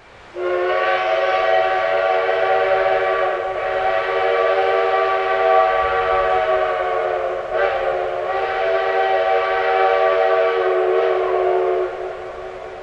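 Steam locomotive's whistle blown in one long blast of about eleven seconds, a chord of several steady notes sounding together, which briefly falters about two-thirds of the way through before carrying on and dying away.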